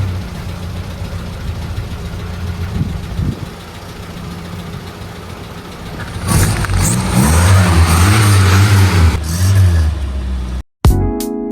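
Autograss race car engine running after months in storage: idling, then revved several times from about six seconds in before settling back. Near the end it cuts off abruptly.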